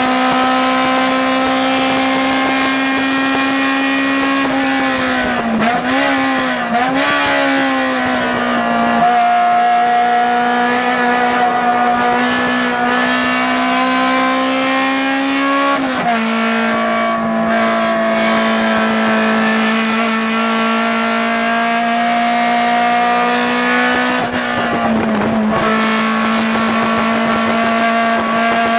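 Acura RSX Type S race car's engine running hard, heard from inside the cockpit, its pitch climbing slowly. The pitch wavers several seconds in, drops sharply at a gear change about sixteen seconds in, and dips briefly again near the end.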